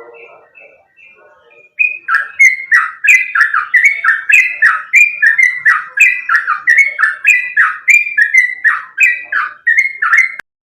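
Sooty-headed bulbul (trucukan) singing a fast, unbroken string of short falling whistled notes, roughly two to three a second. It comes in about two seconds in and cuts off abruptly near the end.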